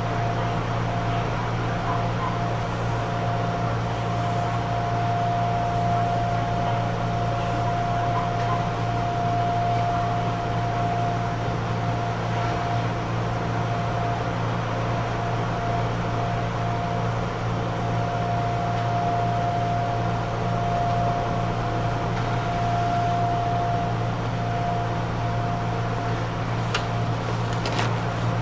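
Interior of a Gakunan Railway 7000 series electric railcar standing still, its air conditioning and onboard equipment running with a steady hum and a constant mid-pitched whine. A few faint clicks come near the end.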